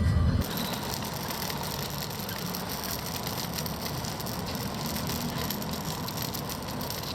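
Steady machine noise at an even level, with a faint thin whine in it.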